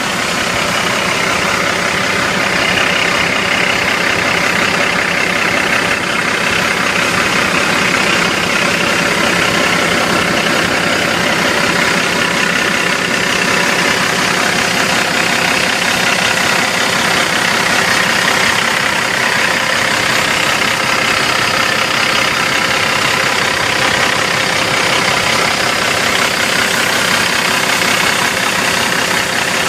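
Cummins ISX inline-six diesel of a 2004 International Eagle 5500 dump truck idling steadily.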